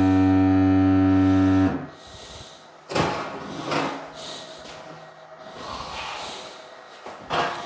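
A small electric motor runs with a steady hum and is switched off abruptly about two seconds in. Short breathy puffs follow a few times.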